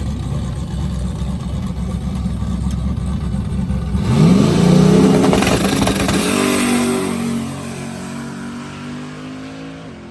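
A 1978 Camaro drag car's engine running with a low, uneven rumble, then about four seconds in it revs up sharply and the car launches. The engine note holds as the car pulls away and gradually grows fainter.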